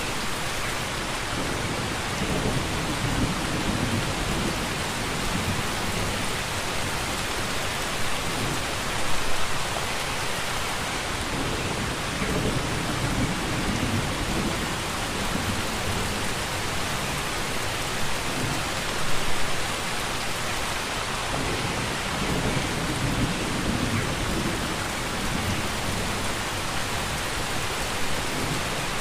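Steady heavy rain, a dense even hiss. A low rumble swells up every ten seconds or so, and there are brief louder surges about every ten seconds.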